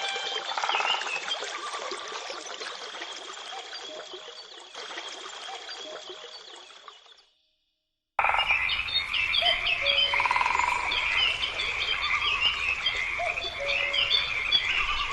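A dense chorus of chirping animal calls, many short rising and falling chirps with some pulsed croak-like calls. It fades out about seven seconds in, breaks off into a second of dead silence, and starts again at full level.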